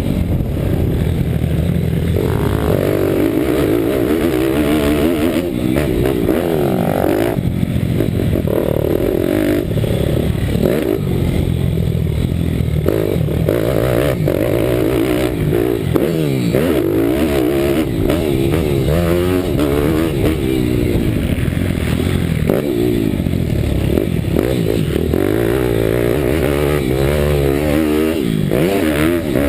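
Bucci Moto pitbike's Daytona Anima 190 cc single-cylinder four-stroke engine running hard under racing, its revs rising and falling over and over.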